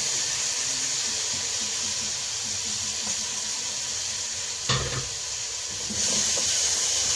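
Chopped tomatoes sizzling in a pot of hot fried onion, tomato paste and spices as they are stirred in with a wooden spoon. The sizzle is steady, with a single knock a little past halfway, and it gets louder near the end as the stirring starts.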